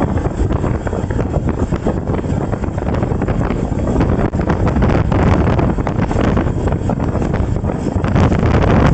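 Wind buffeting the microphone while travelling, a steady rough rumble that grows a little louder near the end.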